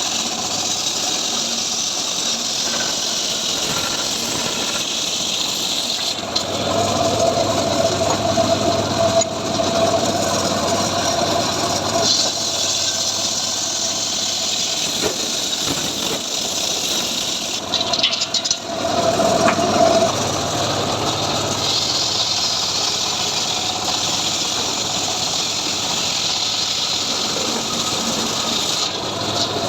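Engine of a homemade sawmill rig running steadily, growing louder and busier twice: about six seconds in for several seconds, and again briefly around nineteen seconds in.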